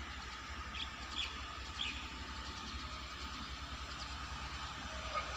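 Distant approaching train heard as a faint steady low rumble and hum that grows slightly near the end, with a few short bird chirps about one and two seconds in.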